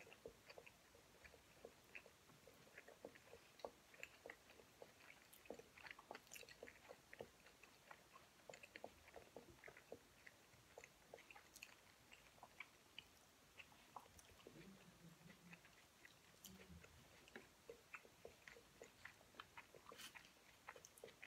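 Faint chewing of sushi rolls: soft wet mouth clicks and smacks, several a second.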